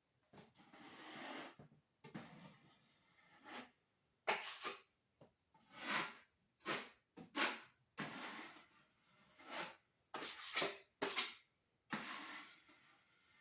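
Putty knife spreading and smoothing joint compound over drywall tape on a wall patch: a series of irregular scraping strokes, some short, some drawn out.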